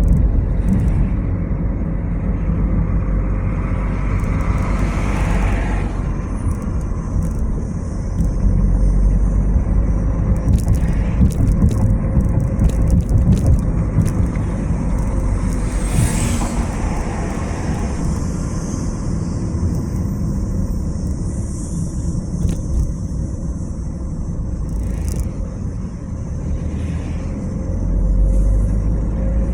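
Car driving along a road: a steady low rumble of engine and tyres, which swells briefly a few times.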